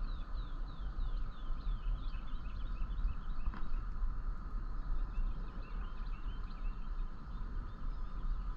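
Birds chirping in a quick series of short falling calls, over a low steady rumble.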